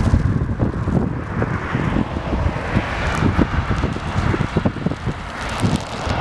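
Wind buffeting the camera microphone in irregular low gusts, over the steady rush of road traffic that grows louder near the end.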